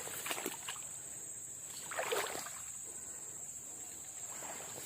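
Steady high-pitched chirring of insects, such as crickets or cicadas. A brief soft rustling sound comes about two seconds in.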